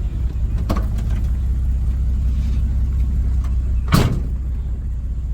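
A vehicle's engine running with a steady low rumble, a couple of small clicks about a second in and a sharp knock about four seconds in.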